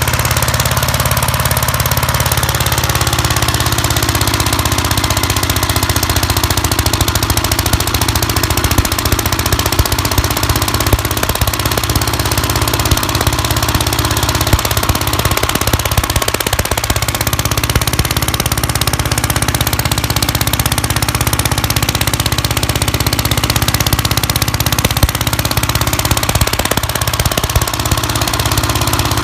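1959 Gravely Model L's single-cylinder engine running steadily with a rapid firing beat, its pitch sagging slightly a few seconds in.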